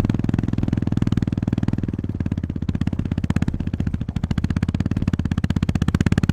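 Honda GB350S's air-cooled single-cylinder engine running at low revs under way, its exhaust firing pulses coming through as a steady, even thump, getting a little louder near the end.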